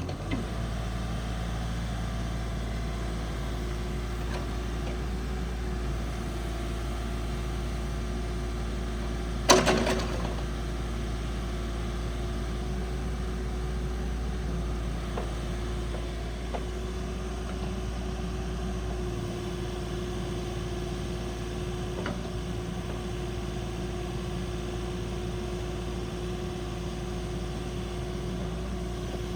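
Kubota U50-5 mini excavator's diesel engine idling steadily, with a constant hum. About nine seconds in, a single loud clank rings briefly.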